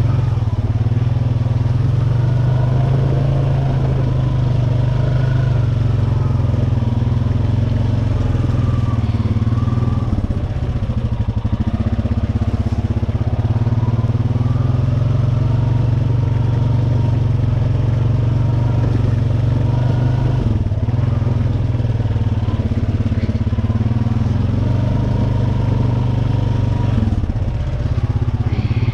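Honda Rancher ATV's single-cylinder four-stroke engine running steadily under way on a rough dirt road, easing off briefly about ten seconds in.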